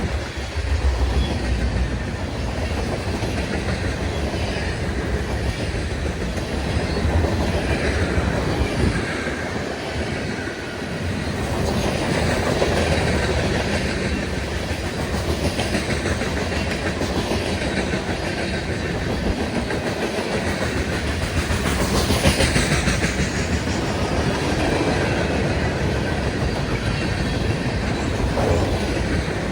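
Freight train rolling past at steady speed: a continuous rumble of car wheels on the rails, with a brief sharper high-pitched sound about two-thirds of the way through.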